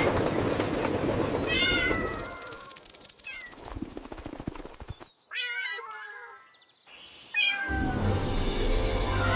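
Several short, meow-like animal cries that bend up and down in pitch, after a rumbling noise at the start; music comes in near the end.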